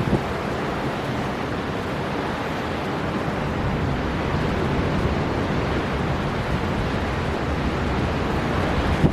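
Storm wind blowing hard over the sea, with surf breaking, a steady rushing noise heavy in the low end that holds without a break.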